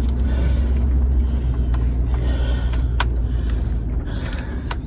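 Vehicle engine running with a steady low rumble that eases off about four seconds in, with two sharp clicks or knocks over it.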